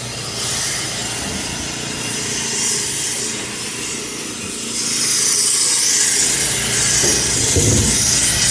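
Road-work noise: a steady rasping like a power saw cutting, growing louder about halfway through.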